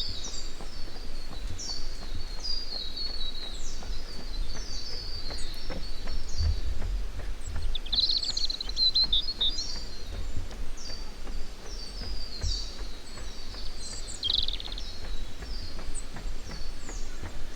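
Birds singing: short, high notes sweeping downward, repeated many times, with a quick burst of twittering about eight seconds in and again near fifteen seconds. A steady low rumble runs underneath.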